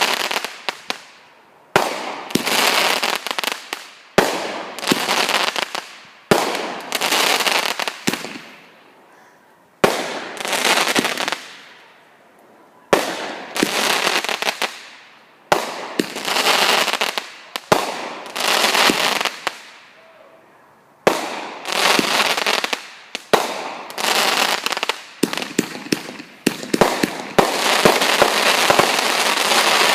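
Fireworks going off in a run of volleys, about one every two seconds. Each is a sharp bang followed by dense crackling that fades within a second or so. Near the end the volleys run together into a continuous crackle.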